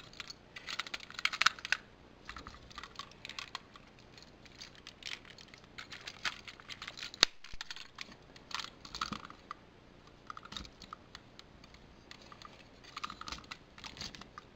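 Hard plastic toy-robot parts being handled and fitted together, tabs pushed into holes: clusters of small clicks and rattles, with one sharp snap about seven seconds in.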